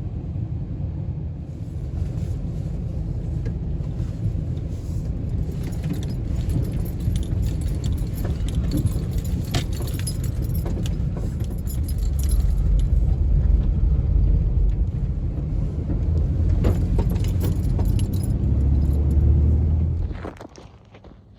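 Pickup truck driving: a steady low rumble of engine and road with frequent small rattles and clinks, louder from about twelve seconds in. It cuts off sharply about twenty seconds in.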